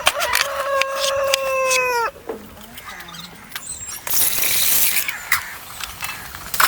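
A rooster crowing once, a long held call that drops in pitch as it ends about two seconds in. Scattered sharp clicks and a loud hissing stretch follow about four seconds in.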